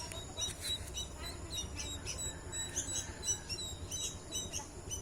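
Young white-breasted waterhen (ruak-ruak) chicks peeping: many short, high chirps, several a second, over a low steady rumble.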